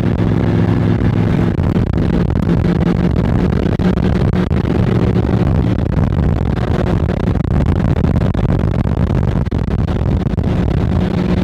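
A 1972 Cadillac 500 cubic-inch V8 running steadily while cruising at speed, heard from inside the car, with its pitch shifting slightly a few times, over constant road noise.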